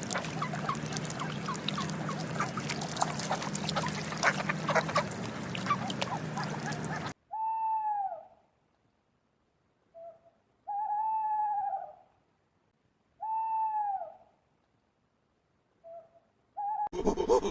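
Owl hooting: three drawn-out hoots, each rising then falling in pitch, spaced a few seconds apart in the second half. They follow a noisy stretch full of clicks that cuts off suddenly.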